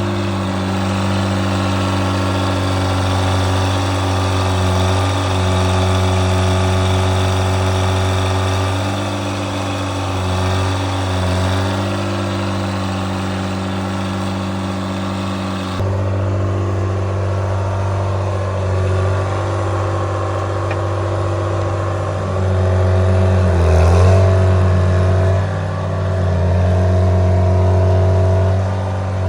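Two-stroke Detroit Diesel engine with a straight-pipe exhaust running steadily. About halfway through the sound turns duller, and in the last third it is revved up twice, growing louder each time.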